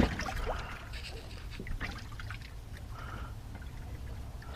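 Water trickling and dripping with small splashes, a sharp knock right at the start, over a steady low rumble.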